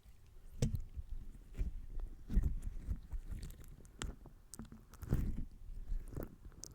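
Slime being squished and pressed by hand: irregular wet squelches and small pops, with a few sharper clicks.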